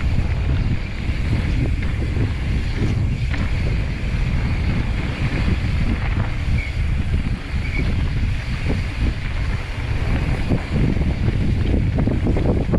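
Wind rumbling over the camera microphone while a mountain bike runs fast down a dirt trail, with scattered knocks and rattles from the bike over bumps.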